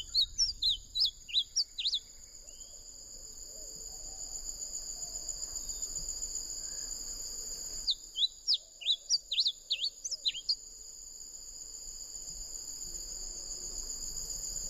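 A bunting singing two short songs, each a quick run of sharp sliding notes lasting about two seconds, the second starting about eight seconds in. Under them runs a steady high-pitched insect buzz.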